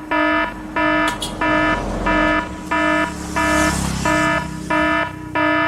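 An electronic beeper sounding a repeated buzzy tone, about one and a half beeps a second. A low vehicle rumble swells and fades in the middle.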